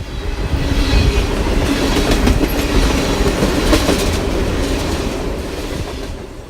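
A train running on the track: a loud rumble with the clatter of its wheels over the rails. It starts suddenly.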